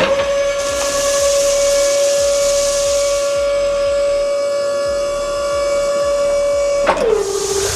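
A loud, steady whistle tone held for about seven seconds, then sliding down in pitch and cutting off near the end.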